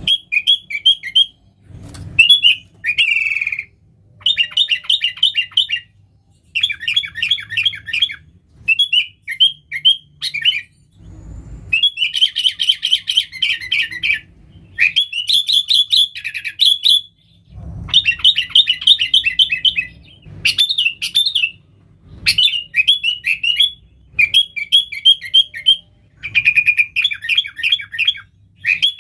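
Sooty-headed bulbul (kutilang) singing a loud, busy chattering song: rapid runs of chirps in phrases a second or two long, broken by brief pauses. A few faint low thumps sit under it.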